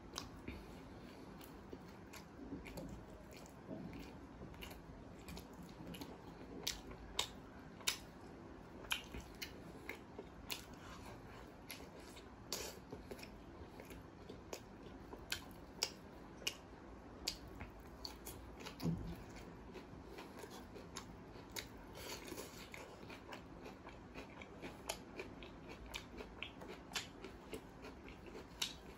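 Close-miked eating sounds: chewing and biting butter naan with curry and raw onion slices. Many sharp, irregular mouth clicks and smacks run throughout.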